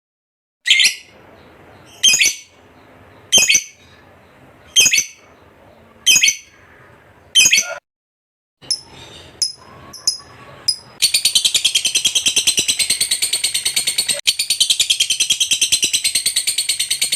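A lovebird calling: six sharp, high calls about a second and a half apart, then a few shorter chirps, then from about 11 s in a long, unbroken, rapid chattering trill, the 'ngekek' song. The sound drops to dead silence briefly at the start and again about 8 s in.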